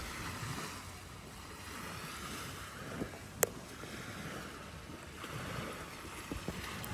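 Outdoor ambience with wind noise on the microphone, and one sharp click about three and a half seconds in.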